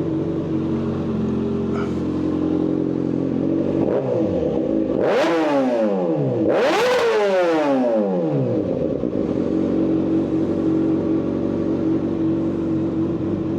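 Kawasaki ZX6R 636 inline-four with a Yoshimura full header exhaust idling, blipped twice about five and seven seconds in. Each time the pitch jumps up and then falls back to a steady idle.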